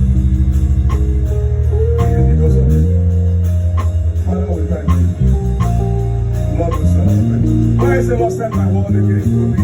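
Instrumental worship music from a live church band, carried by bass guitar and guitar, with held chords that change every second or two and a light beat.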